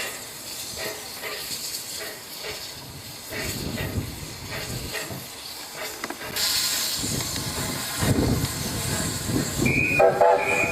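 Steam locomotive hissing steam, the hiss growing much louder about six seconds in, with a brief whistle near the end.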